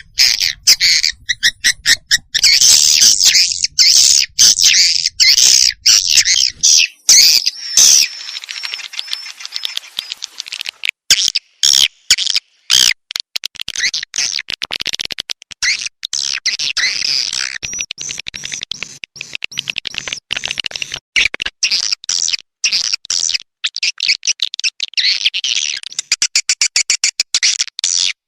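Edible-nest swiftlet calls: rapid, high twittering and chirping, the 'tarik' lure sound played to draw swiftlets into a nest house. It is dense for the first several seconds, then breaks into choppier strings of quick chirps.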